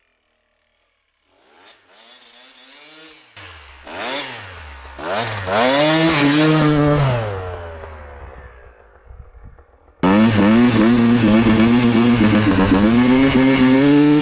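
Enduro motorcycle engine revving, its pitch climbing and dropping repeatedly, then sinking and fading away. About ten seconds in, it cuts abruptly to a louder, steadier engine running under throttle.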